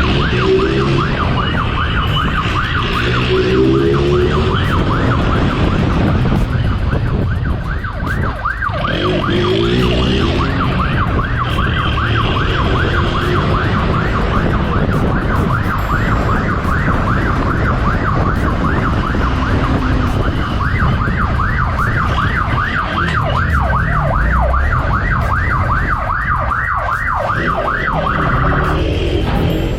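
Police siren in a fast yelp, rising sweeps repeating a few times a second, over engine and road rumble. The siren stops near the end.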